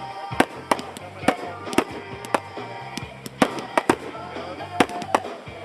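Fireworks shells bursting in an irregular string of sharp bangs, about nine in five seconds, each with a short echo.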